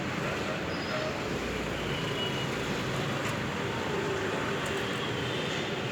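Steady rumbling background noise like distant traffic, with a few faint, short, high chirps about one and two seconds in.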